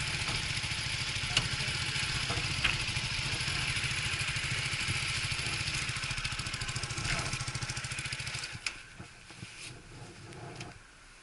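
Suzuki GW250 Inazuma's parallel-twin engine running steadily, then stopping about eight and a half seconds in.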